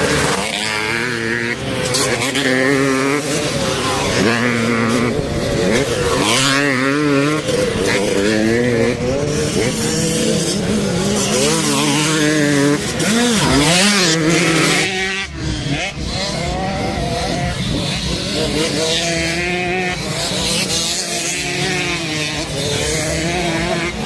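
Motocross bikes racing: several dirt-bike engines revving up and down, their pitch repeatedly rising and falling and overlapping, with a brief lull about fifteen seconds in.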